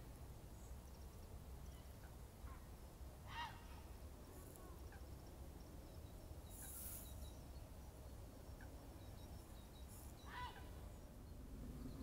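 Faint outdoor ambience: a steady low rumble, with two short distant bird calls about three and ten seconds in and a brief hiss near the middle.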